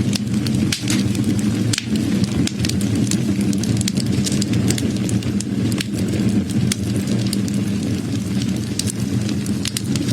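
Wood fire crackling, with frequent sharp irregular pops and snaps over a steady low rush of the burning flames.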